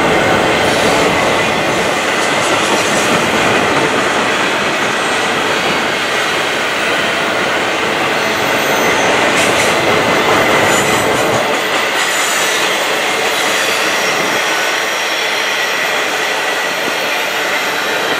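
Double-stack container well cars of a CN intermodal freight train rolling steadily past, wheels running on the rails, with brief high wheel squeals now and then.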